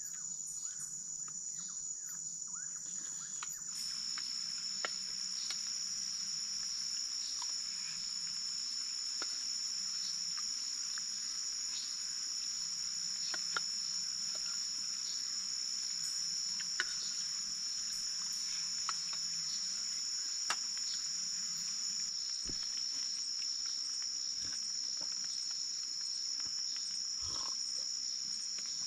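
Forest insects trilling in a steady, high, unbroken drone; about four seconds in, a second slightly lower-pitched trill starts up, with scattered faint ticks throughout.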